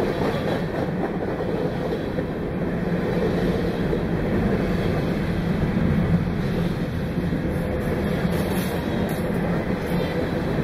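Freight train cars rolling past: a steady rumble of steel wheels on the rails, with no horn sounding.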